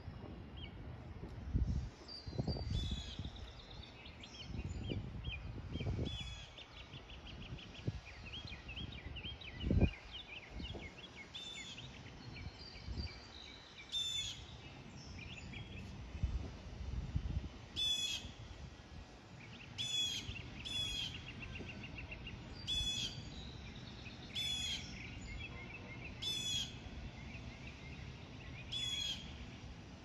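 Small birds chirping, with short high calls repeated every second or two in the second half and faint twittering between. Low gusts of wind rumble on the microphone come and go, the strongest about a third of the way in.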